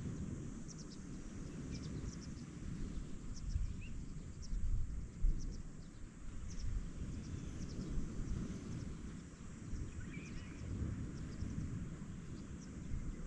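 Outdoor ambience of wind and surf as a low, uneven rumble, with many short, high bird chirps scattered throughout.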